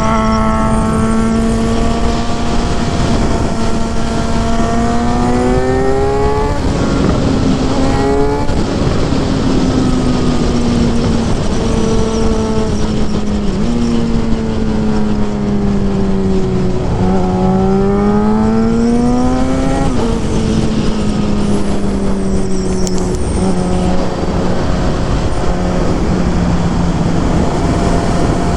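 Suzuki GSX-R 750 inline-four engine and exhaust running under way, its note climbing and falling several times with sudden steps where the revs change, over a constant rushing noise.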